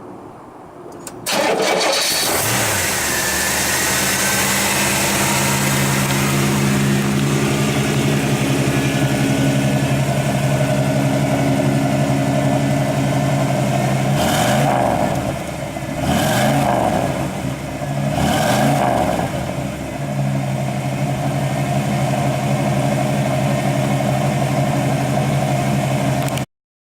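A 1970 Oldsmobile Cutlass's Rocket 350 V8 starting about a second in and settling into a steady idle. It is revved three times, each a quick rise and fall in pitch about two seconds apart, then idles again until the sound cuts off suddenly near the end.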